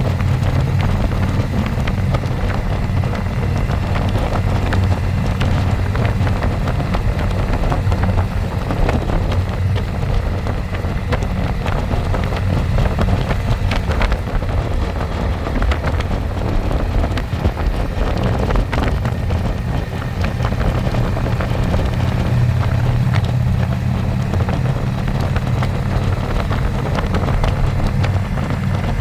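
Harley-Davidson Electra Glide's V-twin engine running steadily with the bike under way, with wind rushing over the microphone.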